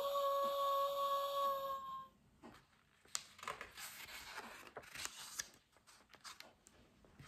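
Recorded wolf howl played through the small speaker of an electronic children's sound book: one held, steady-pitched howl of about two seconds. Then the paper pages of the book rustle as they are turned.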